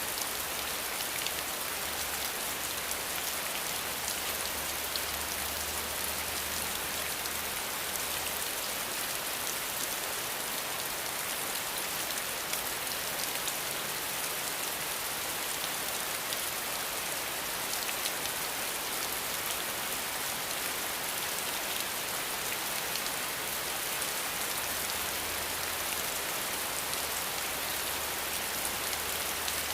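Steady rain falling: an even, unbroken hiss of many drops, with no change in strength.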